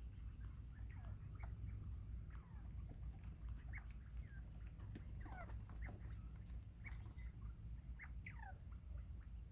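Young bobwhite quail calling: many short, thin chirps and peeps, mostly quick falling notes, scattered throughout and busiest past the middle, over a low steady rumble.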